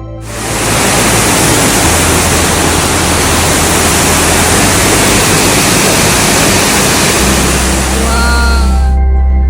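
Waterfall rushing as a steady wash of falling water that starts abruptly and cuts off shortly before the end, over soft ambient music.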